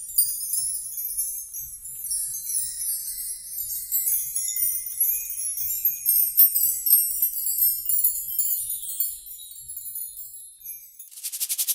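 Small metal bells jingling in a dense, irregular high tinkle. Near the end this gives way to a rapid, even rattle.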